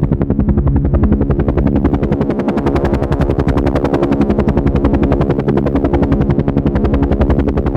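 Helicopter in flight: the rotor beats in a fast, even pulse, about ten to a dozen beats a second, over a steady engine hum.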